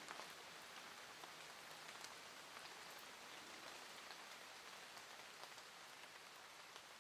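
Faint steady rain: an even hiss of falling rain with scattered drop ticks, fading slightly.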